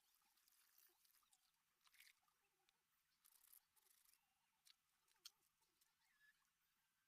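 Near silence, with faint scattered clicks and rustles; one sharper tick about five seconds in.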